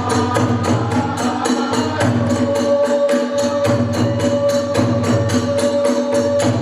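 Kagura festival music: drum and hand cymbals beat out a fast, even rhythm of about four to five strokes a second, and about two seconds in a flute takes up a long held note over it.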